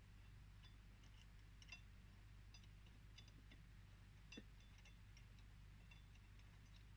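Near silence with a low steady hum and faint, scattered light ticks and clinks, one slightly louder about four and a half seconds in.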